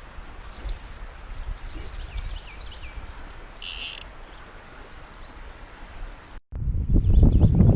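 Riverside outdoor ambience: a steady low rumble of wind with faint chirps and one short, high, buzzy animal call. After a brief break about six and a half seconds in, it gives way to much louder rumbling and rustling close to the microphone.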